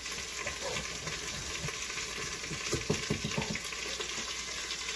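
Minced garlic and chicken thighs sizzling in oil in an Instant Pot on sauté mode, a steady frying hiss. A wooden spoon stirs and scrapes in the pot, with a cluster of knocks about three seconds in.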